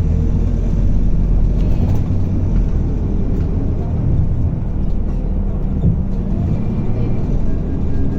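Scania K280UB bus running, with a steady low engine and drivetrain rumble.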